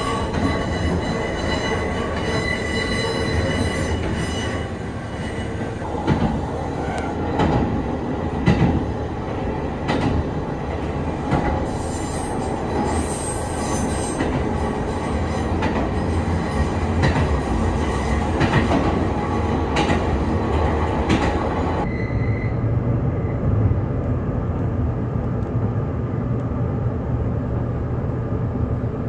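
Interior sound of the Vista Car limited express train running at speed: a steady rumble of wheels on rail, with a thin whine in the first few seconds and a run of sharp clicks from the wheels crossing rail joints. About 22 seconds in, the sound turns more muffled, with a low hum.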